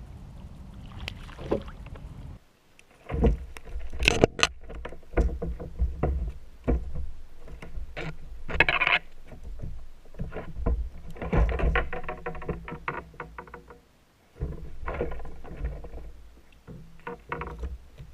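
Irregular knocks, bumps and water sounds on and around a plastic fishing kayak (Vibe Sea Ghost 130), with two brief lulls.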